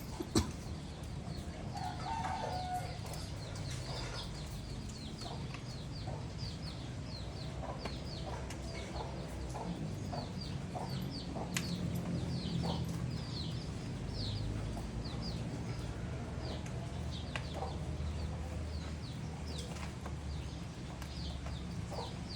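A flock of pigeons calling during feeding: many short, high, falling chirps that come in quick succession, mixed with lower pitched calls and scattered sharp clicks over a steady low hum.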